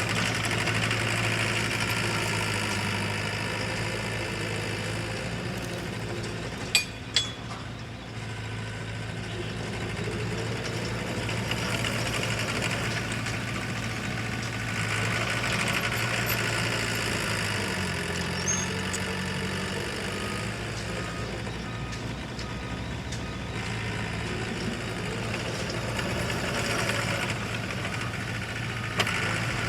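Heavy diesel earth-moving machinery running steadily, its engine note shifting a little about two-thirds of the way through. Two sharp clanks about seven seconds in.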